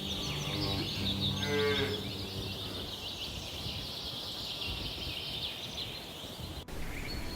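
Cow mooing, low drawn-out calls in the first two seconds, over steady high-pitched chirping.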